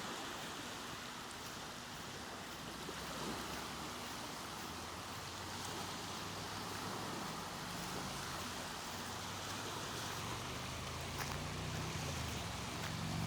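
Small lake waves lapping on the beach, a steady soft wash of water. A faint low hum joins about halfway through and grows slightly toward the end.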